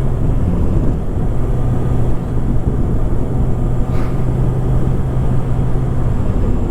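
Kawasaki Ninja ZX-6R inline-four running at a steady cruise, heard from the rider's mic with wind rumble over it. The engine note holds one pitch and eases off near the end, with a faint brief tick about four seconds in.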